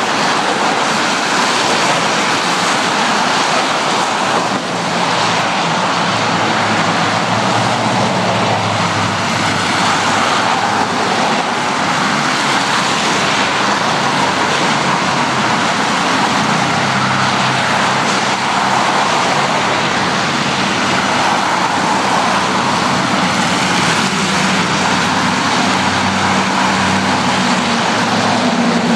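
Steady road traffic: cars and trucks passing, a continuous mix of tyre noise and engine hum, with one engine rising in pitch near the end as it pulls away.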